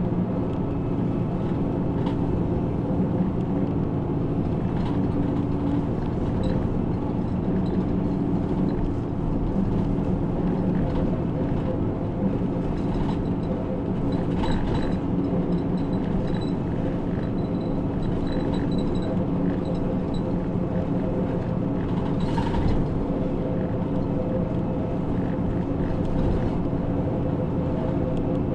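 City bus driving along, heard from inside: a steady engine drone with tyre and road noise, and brief rattles about halfway through and again about three-quarters of the way in.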